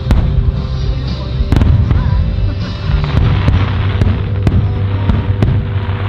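Aerial fireworks bursting: a loud cluster of booms about a second and a half in, then a string of sharp single cracks, with music playing underneath.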